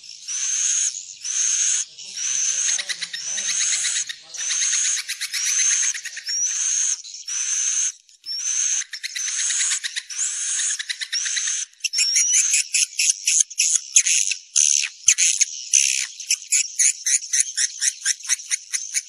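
Recorded swiftlet calls, the lure sound played to draw swiftlets into a nesting house: repeated phrases of rapid high twittering chirps, each about a second long and ending in a short rising note. About twelve seconds in they change to a faster, denser run of chirps.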